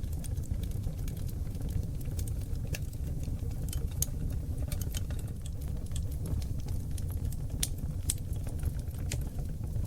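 Wood fire of seasoned oak logs burning in a fireplace: a steady low rumble of flames with frequent irregular crackles and pops.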